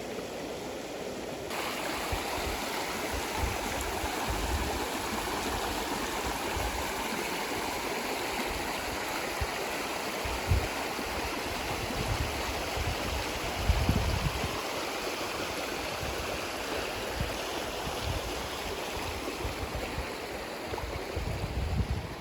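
Small mountain stream flowing over rocks, a steady rushing that grows fuller about a second and a half in. There are occasional low rumbles on the microphone.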